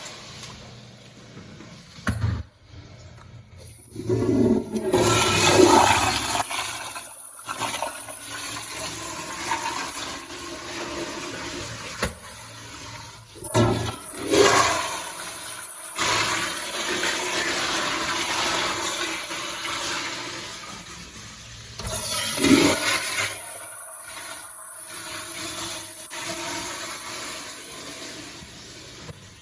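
Toilets flushing one after another, with loud rushes of water about 4, 14 and 22 seconds in and a steady rush of water between them. The uploader praises these as fast-starting flushes ("instantos").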